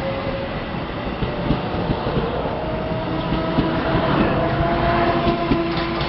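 A train running past close by: a steady loud rumble of wheels on rail with repeated clicks over the rail joints and a faint steady whine whose pitch drops partway through.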